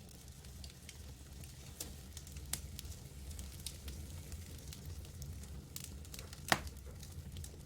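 Campfire burning and crackling: scattered sharp pops, a few seconds apart, with one louder pop about six and a half seconds in, over a steady low rumble of the burning fire.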